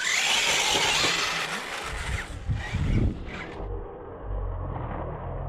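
Radio-controlled scale truck driving over rock and dirt: motor and drivetrain noise with tyres scrabbling, and a loud hiss for the first couple of seconds.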